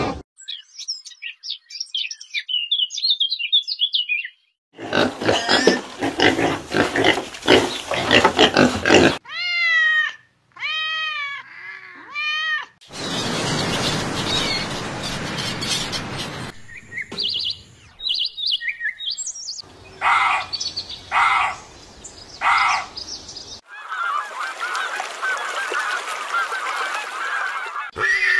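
A string of short animal-call clips cut one after another, mostly fowl and other birds: high chirping, noisy squawking, three rising-and-falling honks in the middle, then more calls and a steady chatter near the end.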